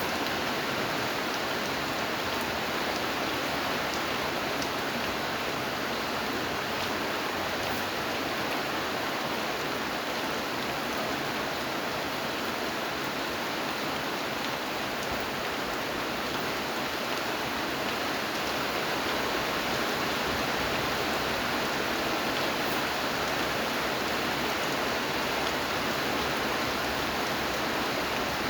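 Steady rainfall: an even, unbroken hiss of rain with no change in strength.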